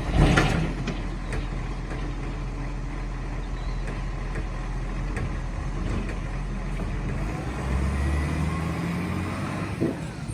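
Garbage truck engine running steadily, with a loud short burst of noise about a quarter second in. The engine revs up, rising in pitch, from about seven and a half seconds in, and there is a short knock just before the end.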